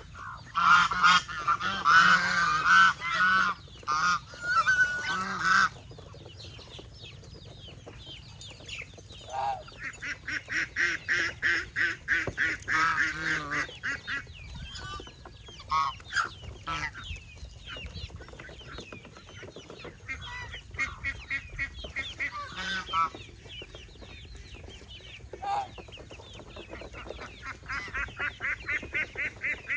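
Domestic geese honking, loud and overlapping for the first six seconds, then quieter bouts of rapid, repeated calls.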